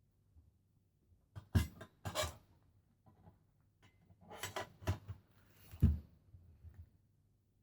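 Parts of a take-apart fire pit being handled and fitted together: a few sharp knocks and short scraping rubs, the loudest knock just before the sixth second.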